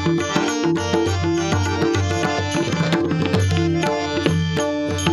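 Instrumental interlude of a Marathi abhang accompaniment: tabla drumming with regular sharp cymbal-like strokes, under a melody instrument playing held notes that step from pitch to pitch.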